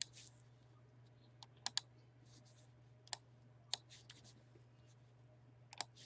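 Scattered faint clicks of a computer mouse and keyboard, about six of them, some in a quick pair, over a steady low electrical hum.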